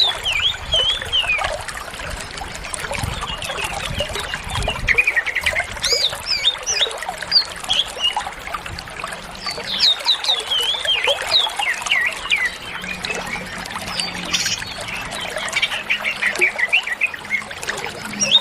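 Green leafbird (cucak ijo) singing without pause: a fast stream of varied whistled notes, quick rising and falling slurs and chattering phrases, the varied fillers of a bird in full song.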